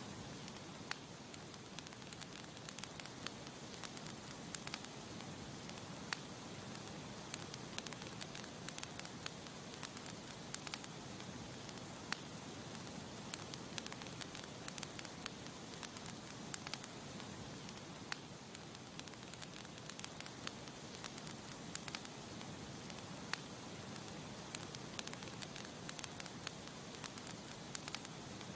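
Wood campfire burning with a steady low hiss and frequent sharp crackles and pops at irregular intervals.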